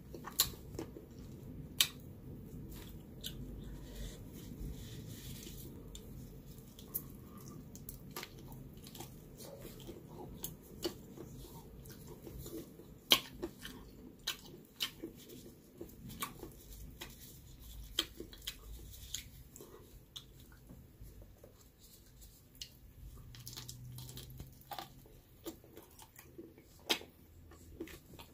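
Close-up eating of spicy chicken feet: wet chewing and crunching, with sharp clicks scattered irregularly throughout.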